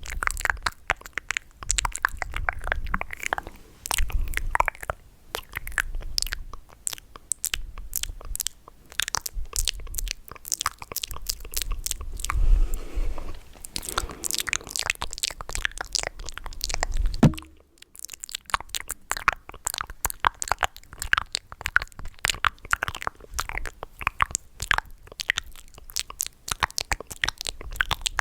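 ASMR mouth sounds close to the microphone: quick, irregular clicks and smacks of tongue and lips, with a brief pause about seventeen seconds in.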